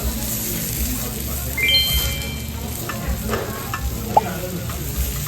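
Food sizzling on a hot grill or pan, a steady hiss. About one and a half seconds in a brief ringing tone sounds, and a small clink follows later.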